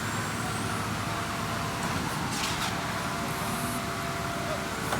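Machinery running steadily during a concrete slab pour, with a short hiss about two and a half seconds in.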